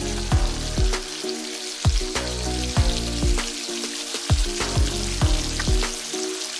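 Chopped onion sizzling in hot oil in a pot as it is stirred, under background music with a deep electronic beat of about two strokes a second.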